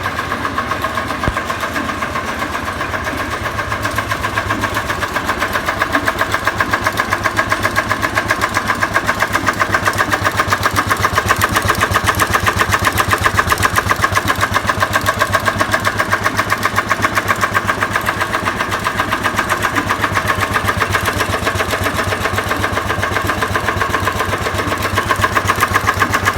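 Petter S-type stationary engine running steadily with a rapid, even firing beat while it drives a line shaft. It gets slightly louder about six seconds in. Its compression has been restored by a resurfaced cylinder head.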